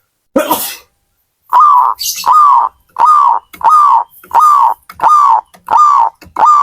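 Zebra dove (perkutut) cooing: a steady series of short notes, about two a second, each curving slightly down in pitch, starting about a second and a half in after a brief rasping sound.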